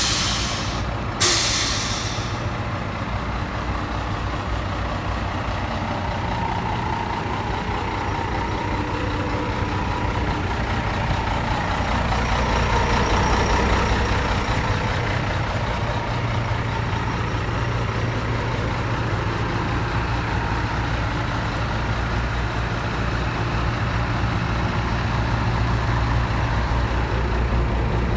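Scania 124 T400 truck's six-cylinder diesel engine running steadily, with a sharp hiss of released brake air about a second in. The engine sound swells a little about twelve seconds in, then settles back.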